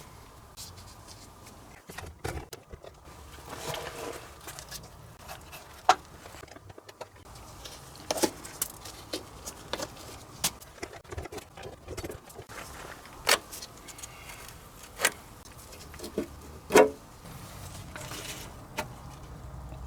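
Hand tools prying off plastic underbody fasteners — expansion nuts, caps and grommets — giving a run of irregular clicks, snaps and light knocks, with a handful of sharper, louder clicks scattered through.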